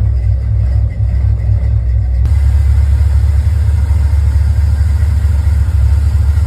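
Truck engine running with a loud, deep, steady rumble; the sound changes abruptly a little over two seconds in.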